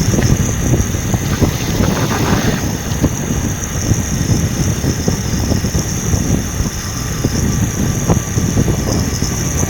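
Steady low rumble of a vehicle running, with a brief hiss from about one to two and a half seconds in.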